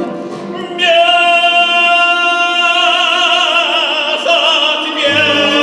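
Male operetta singer singing a romance-style song with instrumental accompaniment, holding one long note with vibrato for about two seconds before moving on.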